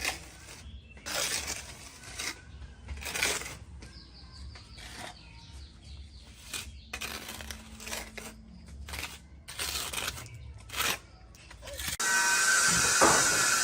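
Scattered knocks, taps and scrapes of hand work on wood, then a loud steady rushing noise that starts abruptly about twelve seconds in.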